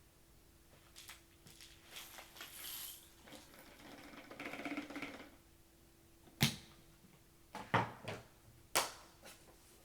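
Handling noises: light rustling and scraping, then three sharp clicks or knocks a second or so apart, over a faint steady hum.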